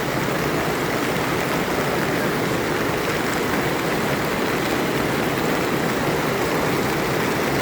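Hailstorm: hail and rain pelting down steadily in a dense, even roar of countless small impacts.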